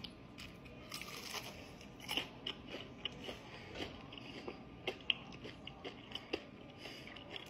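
Chewing a fried, flour-battered lion's mane mushroom nugget: faint, irregular crisp crunches of the coating, several a second.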